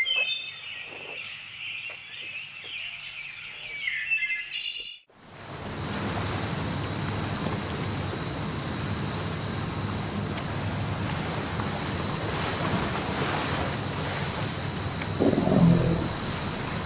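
Small birds chirping and singing, then an abrupt cut about five seconds in to a steady outdoor noise haze with a faint steady high tone. A louder low sound comes in near the end.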